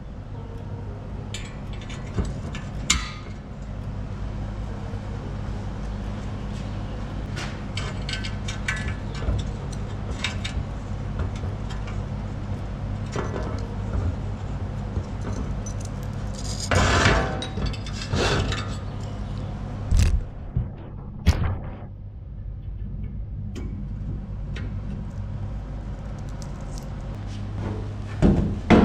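Metal tools and parts clinking and clattering as they are handled, over a steady low hum. The loudest knocks come in a cluster a little past the middle.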